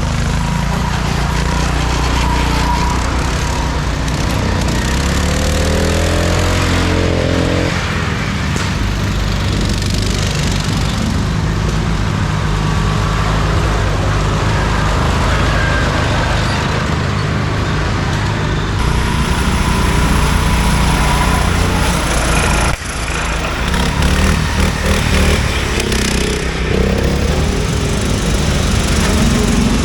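Racing lawn mower engines running hard over rough ground, with a rise in revs about a quarter of the way through.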